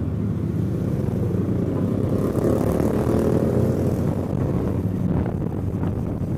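Kawasaki Eliminator's 451 cc parallel-twin engine running on the move, with road and wind noise. In the middle the engine note swells louder and then eases back.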